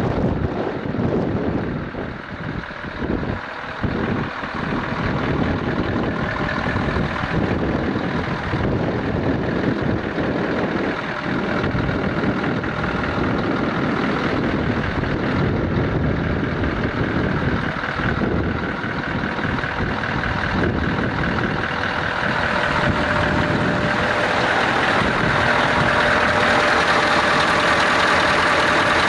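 Scania R580 tipper truck's V8 diesel engine running steadily, growing louder from about 23 seconds in. A steady whine joins it in the later part.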